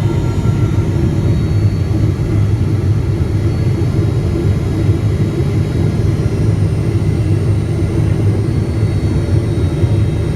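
Boeing 777-300ER jet airliner in flight, a steady low rumble of engines and airflow with no sudden changes.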